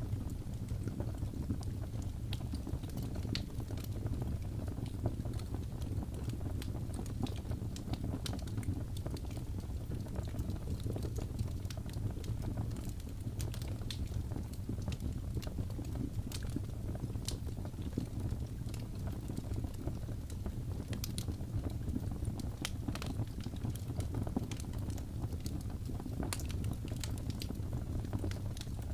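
Wood fire burning, with a steady low rumble and frequent small crackles and pops scattered throughout.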